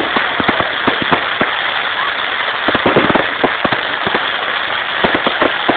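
Fireworks going off: a rapid, irregular string of sharp bangs and crackles over a steady hiss, thickest about halfway through.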